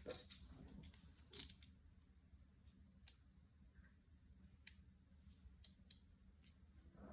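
Faint, scattered small clicks and taps, with a short cluster of louder clicks about a second and a half in, over a faint low steady hum.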